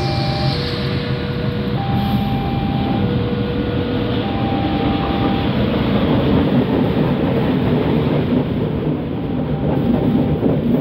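A diesel locomotive hauling passenger coaches passes, its engine and wheel noise building from about four seconds in and then filling the sound. Over it, a level-crossing warning alarm sounds in two alternating tones, low then high, each held about a second, and is plainest in the first half.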